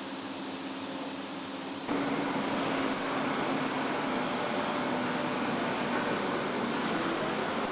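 Steady machinery noise of a truck assembly plant, a hum with a few held tones, which jumps suddenly louder about two seconds in and then stays steady.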